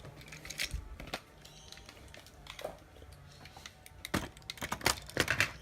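Irregular light clicks and clacks of toy trains being handled and pushed along a toy track. They are busiest near the end, over a faint low hum.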